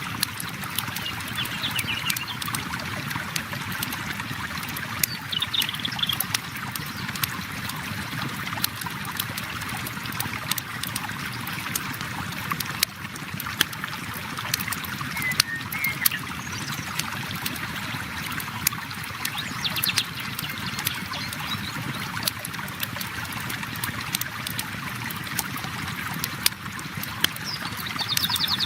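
River water flowing steadily, with a campfire crackling in sharp pops scattered throughout, and a few faint high chirps now and then.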